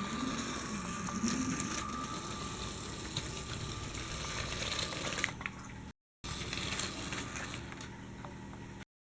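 LEGO Powered UP train motor running, with the plastic train rattling and clicking along its track; the sound cuts off briefly twice.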